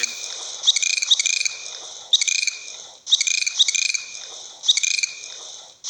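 Dolphin chattering: rapid click trains mixed with short high whistles, coming in repeated bursts.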